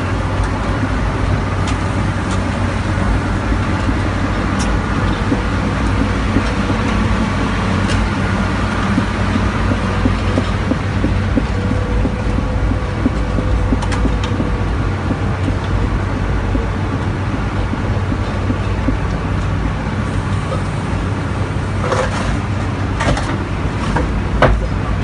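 Heavy machinery engine running steadily under load, with a cluster of sharp metallic clanks near the end.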